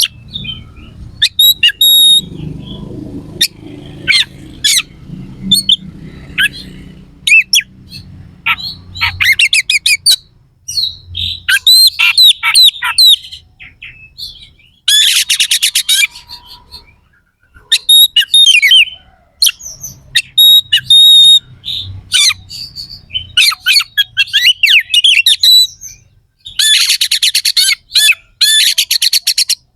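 Oriental magpie-robin (kacer) singing in loud, rough bursts of varied phrases and rapid harsh notes. Two longer rapid bursts come around the middle and near the end, and a low hum runs underneath during the first third.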